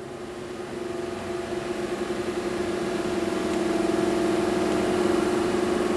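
An engine running steadily with a constant pitch, growing louder over the first few seconds.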